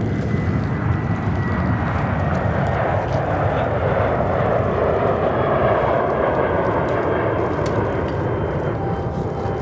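Fixed-wing military aircraft engine noise as the aircraft departs: a steady, loud roar that swells to its strongest about halfway through, then eases slightly near the end.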